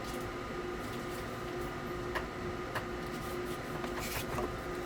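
Small airbrush compressor running with a steady, pulsing hum, with a few light clicks and a brief hiss about four seconds in.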